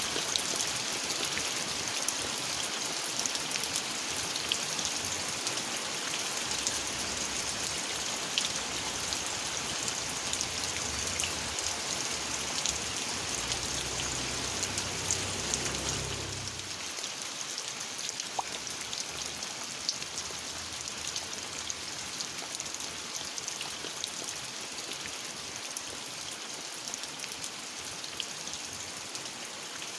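Steady rain falling, a continuous hiss dotted with the clicks of individual drops. A low rumble sits underneath through the middle and fades out about sixteen seconds in, leaving the rain slightly softer.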